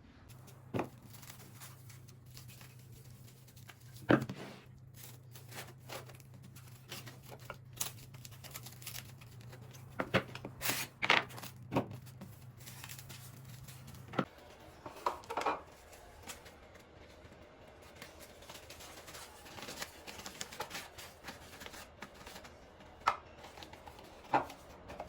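Objects being handled close up: scattered taps, clicks and crinkling, over a steady low hum that stops about fourteen seconds in.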